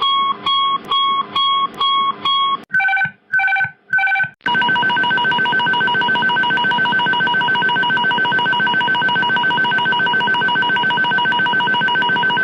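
Airbus A300 cockpit aural warnings played one after another. First a repeating beep about twice a second, then three separate two-tone chimes. From about four seconds in comes a continuous, rapidly pulsing ringing alarm.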